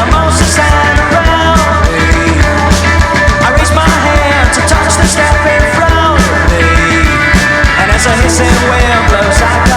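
Rock band playing: drums keeping a steady beat under guitars and bass.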